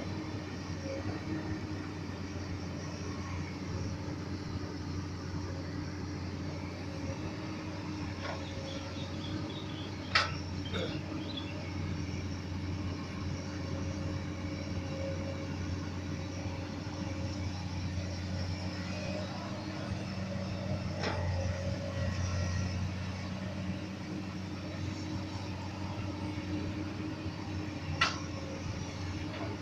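Komatsu PC200 hydraulic excavator's diesel engine running steadily while it digs. Two sharp knocks stand out, one about a third of the way in and one near the end, with a few fainter knocks between.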